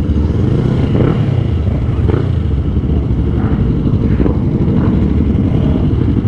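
Motorcycle running, a steady loud low rumble.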